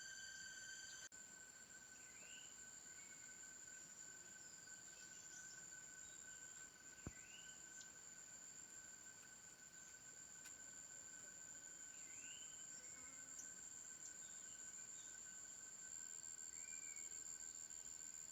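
Faint forest ambience: a small bird gives short, upward-sweeping chirps every two to three seconds over two steady high-pitched tones and a soft hiss, with one sharp click about seven seconds in.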